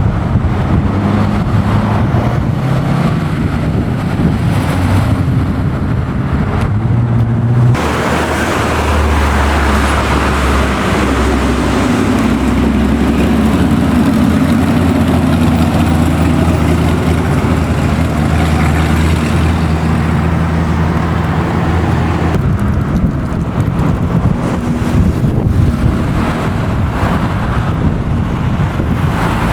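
Classic car engines running loudly, in what sound like three separate clips: the sound changes abruptly about a quarter of the way in and again about three quarters of the way through.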